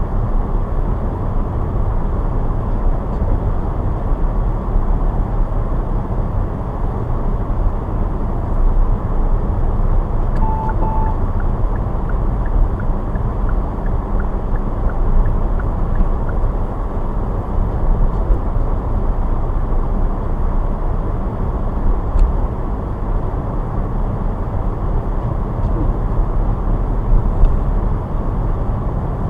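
Steady road noise of a car being driven: a low rumble of engine and tyres. Two short beeps sound about ten seconds in.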